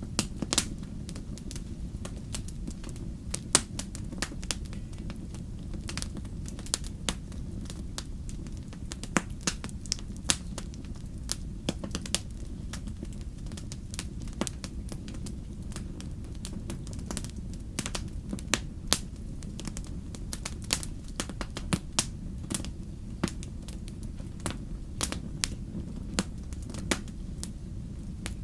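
Wood fire in a fireplace crackling: sharp, irregular pops and snaps, several a second, over a steady low rumble of the burning fire.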